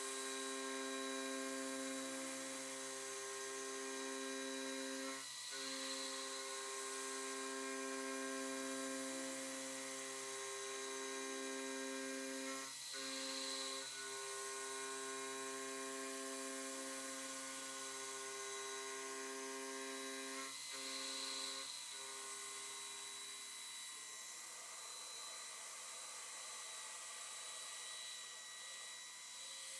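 Home-built CNC milling machine running a cut: a steady motor whine with overtones, briefly interrupted every several seconds as the machine changes direction. Near the end the whine mostly drops away, leaving a hiss.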